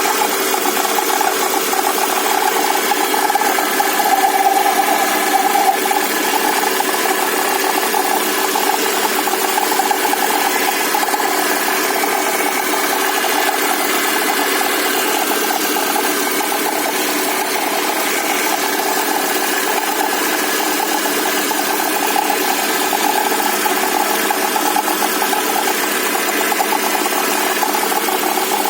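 Engine running steadily at idle with a constant whistle from the motor, a steady mid-pitched tone over the engine noise.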